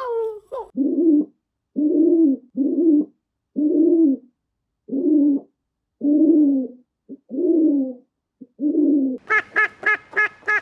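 A bird giving a series of low calls, about eight of them, each about half a second long with a small rise and fall in pitch. Near the end a different, quicker run of short, higher calls starts, about six a second.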